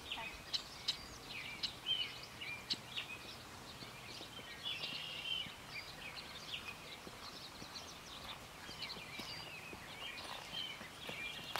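Several birds chirping and singing over a steady outdoor background hiss, with a few short sharp ticks in the first three seconds.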